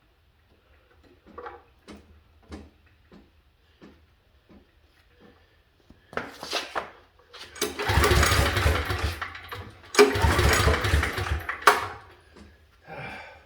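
Briggs & Stratton 5,550-watt gas generator engine being cranked twice in long, loud bursts, turning over without catching: it fails to start. Light clicks and knocks come before the cranking.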